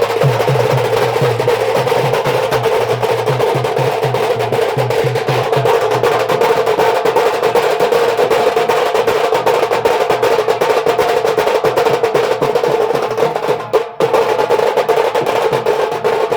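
Band drums playing a fast, dense rhythm of rapid strokes and rolls, with low thumps under it for the first few seconds and a brief drop near the end.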